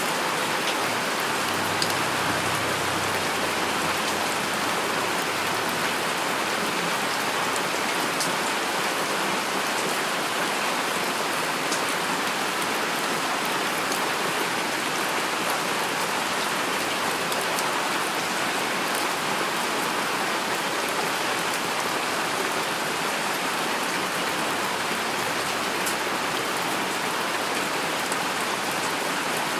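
Heavy rain falling steadily, with many sharp drop hits on a surface scattered through an even hiss.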